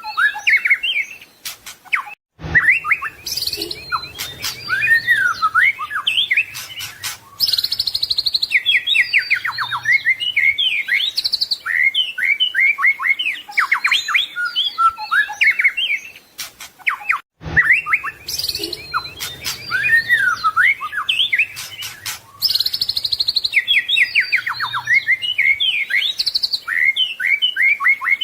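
White-rumped shama (murai batu) singing without pause: a dense run of varied chirps, whistled phrases and rapid trills. The same stretch of song repeats about every fifteen seconds, broken twice by a short gap and a click where the recording loops.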